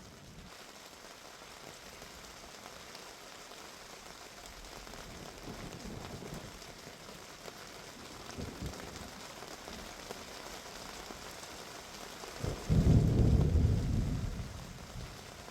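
Heavy rain falling steadily, with a loud rumble of thunder about three-quarters of the way through that lasts about two seconds and fades. Fainter low rumbles come twice before it.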